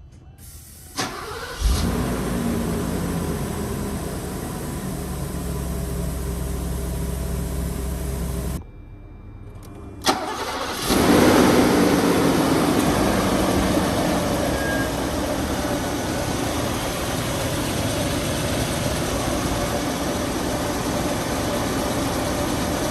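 1986 Mercedes-Benz 420SEL's 4.2-litre V8 on a cold start: it cranks and catches about two seconds in, then runs steadily. Around nine seconds in the engine sound drops away, and a couple of seconds later it fires again with a brief flare of revs before settling into a steady cold idle.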